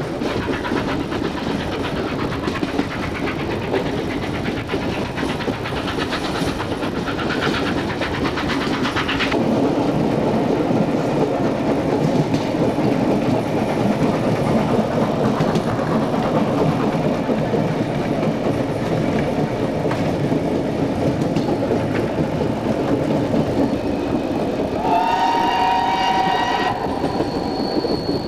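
Steam-hauled passenger train running on the rails, a continuous rumble of wheels and carriages with a rhythmic clickety-clack. Near the end a train whistle sounds a chord of two or more notes for about two seconds, followed by a brief high thin tone.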